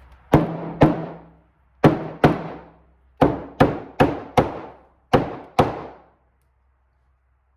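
Hammer striking metal drill press parts, ten sharp blows in bunches of two, two, four and two, each ringing briefly; the blows stop about six seconds in.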